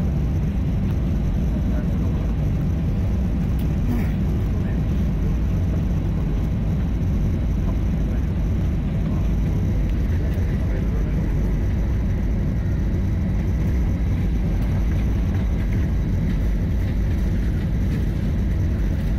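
Steady rumble of an airliner heard from inside the passenger cabin, engine and airflow noise at a constant level.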